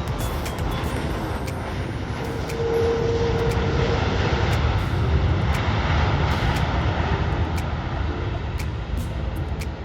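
Jet airliner passing close by near the runway, its engine noise a steady rush that swells about two and a half seconds in and eases near the end.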